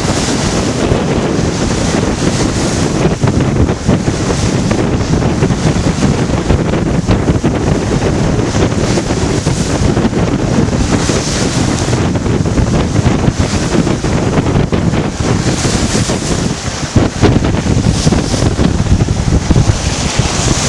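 Heavy wind buffeting the microphone over the rush of waves and chop against a sailboat heeled over and beating close-hauled in about 18 to 20 knots of wind, with a few brief knocks.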